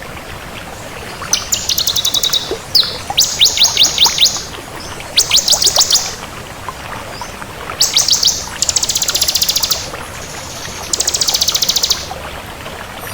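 Bar-winged prinia (ciblek) singing: about six high trilled phrases, each a quick run of repeated sharp notes lasting a second or so, separated by short pauses, over a steady faint hiss.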